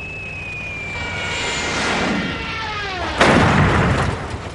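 Cartoon sound effect: a long falling whistle that drops faster in pitch near its end, followed about three seconds in by a loud boom that fades over about a second.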